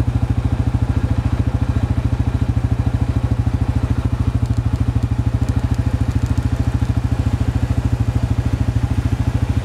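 Diesel locomotive engine idling with a steady, even throb that does not change.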